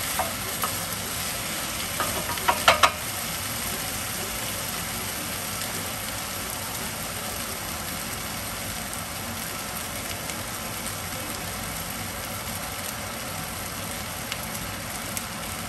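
Diced potatoes and bell peppers sizzling steadily in a hot frying pan, with a few sharp clicks about two to three seconds in.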